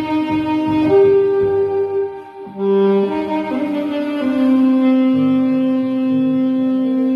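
Saxophone playing a melody in long held notes. It breaks briefly for a breath about two and a half seconds in, then holds one long note through the second half.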